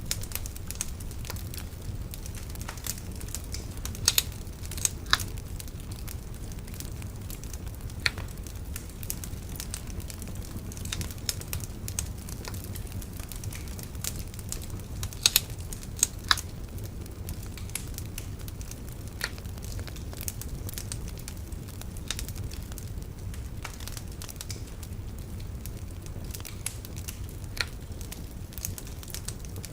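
Wood bonfire crackling, with irregular sharp pops over a steady low rumble. The loudest pops come about four seconds in and again about fifteen seconds in.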